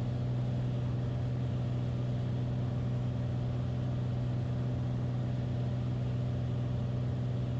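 Steady cockpit drone of a Beechcraft Bonanza's single piston engine and propeller in descent on final approach: an even hum with a strong low tone and fainter overtones above it.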